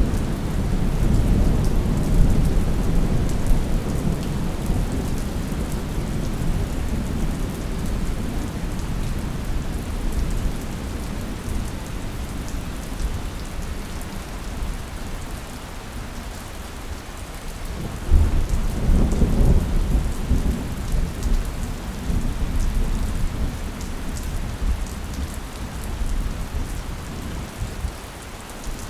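Steady rain with thunder: a low rumble that fades over the first several seconds, then a sudden thunderclap about eighteen seconds in that rumbles on for a few seconds before dying away.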